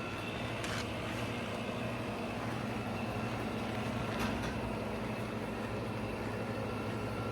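1996 GE window air conditioner running in cooling mode: a steady low hum from the compressor under the even rush of its fan, with two faint ticks.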